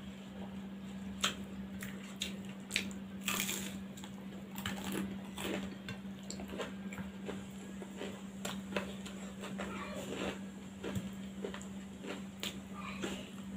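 Close-up eating sounds of someone eating rice and side dishes by hand: irregular chewing clicks and soft squishes, over a steady low hum.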